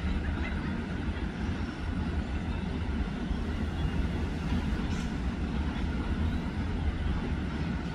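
Diesel-hauled passenger train running through the station: a steady low rumble with a faint steady high tone over it.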